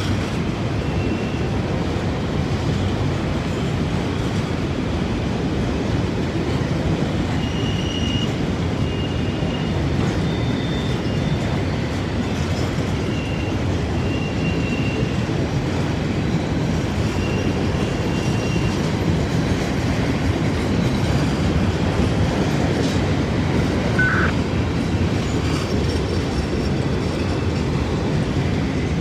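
Freight train cars rolling steadily past, a continuous rumble with rail clatter and several brief, high-pitched wheel squeals along the way.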